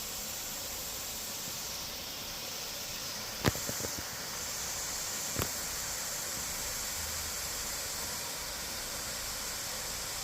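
Steady outdoor hiss, with a cluster of sharp clicks about three and a half seconds in and one more a couple of seconds later.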